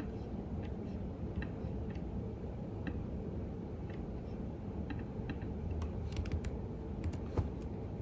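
Typing on a computer keyboard: scattered, unhurried keystrokes, with a few quicker runs of clicks between six and seven and a half seconds in, over a steady low background hum.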